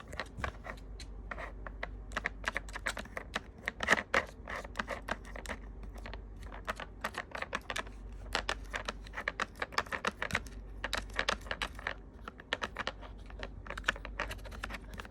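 Kitten pawing at a plastic treat puzzle toy: rapid, irregular clicking and tapping of the hard pieces as they are knocked and shifted.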